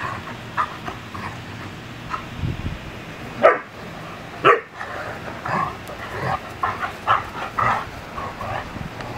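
Dogs at play barking: two loud, sharp barks about three and a half seconds in and again a second later, among many shorter, softer yaps.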